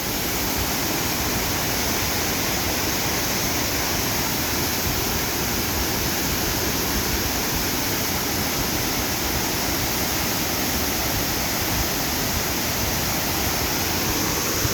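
Waterfall pouring steadily onto rocks, a dense even rush of falling water.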